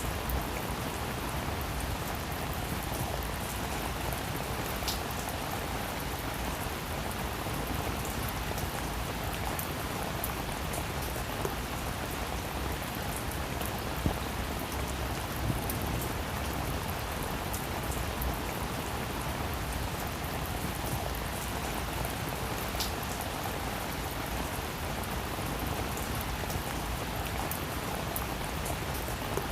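Steady rain falling on a roof, an even hiss with scattered individual drops ticking; a few single drops hit louder.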